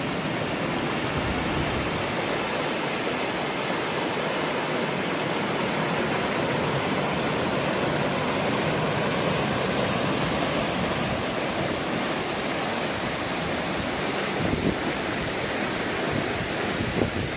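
Steady rush of flowing water, with a few wind buffets on the microphone near the end.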